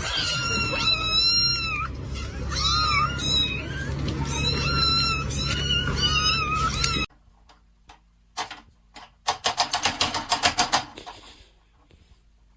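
Domestic cat meowing over and over, long wavering high calls over a low steady hum. After about seven seconds it cuts off suddenly, and later a rapid run of clicks or taps follows.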